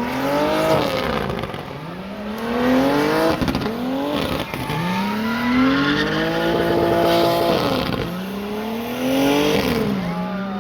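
A car engine revving hard, its pitch climbing and dropping back about six times, held high for about a second near the middle.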